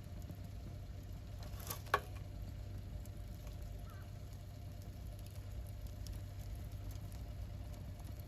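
Wood campfire burning, with faint scattered crackles over a steady low rumble and one sharp pop about two seconds in.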